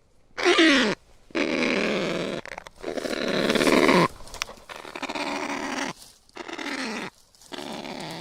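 Kakapo calling: a series of about six harsh, rasping calls separated by short gaps, several of them gliding down in pitch.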